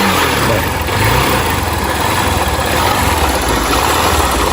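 Small motorcycle engine running and being revved, its pitch rising briefly about a second in.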